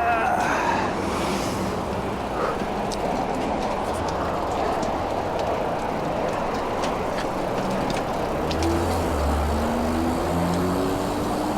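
Steady wind and road noise from riding a bicycle along traffic, with a motor vehicle's engine note climbing in pitch over the last few seconds.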